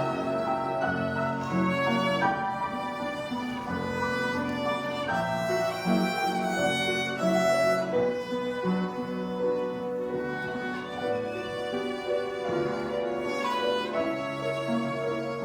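Violin playing a melody of held notes, with a lower accompaniment sounding underneath.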